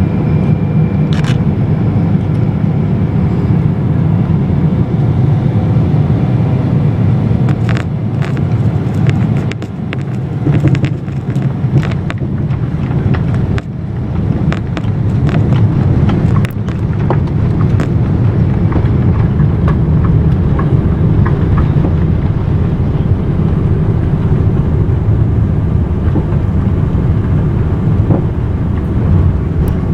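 Boeing 777-200LR cabin noise during landing: a steady loud roar of the engines and rushing air. A run of sharp rattling clicks comes in the middle.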